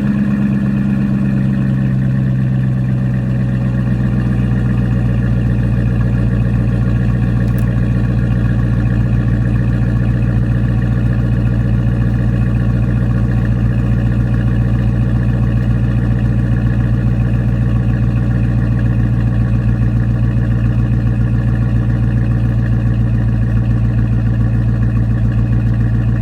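2018 Dodge Charger R/T's 5.7-litre HEMI V8 idling through a Spintech 6000 series mid muffler with the resonator deleted, shortly after a cold start. The idle settles a little lower in the first two seconds, then runs steady with a deep, even exhaust note.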